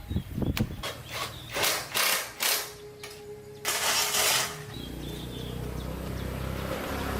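A run of sharp mechanical clicks and knocks, then a short hiss, then a motor starting up about two-thirds of the way through and running with a steady low hum that slowly grows louder.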